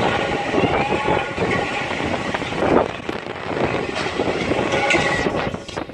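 Strong gusting wind buffeting the microphone: a loud, dense rushing rumble that eases about five and a half seconds in.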